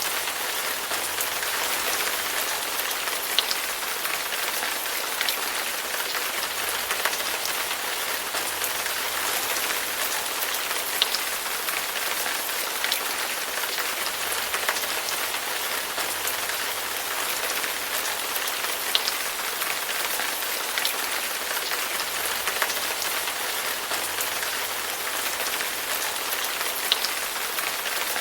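Steady rain falling on a hard surface, a dense even hiss with occasional sharper drop ticks standing out.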